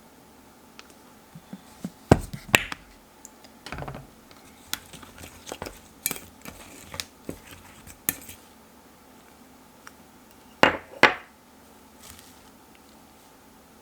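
Kitchen dishes and utensils knocking and clinking, a scatter of sharp clicks with two louder pairs of knocks, one about two seconds in and one near eleven seconds.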